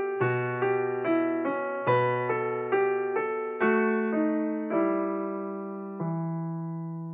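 Background piano music: a slow melody of struck notes, about two a second at first, then slowing to a last held note about six seconds in that fades away.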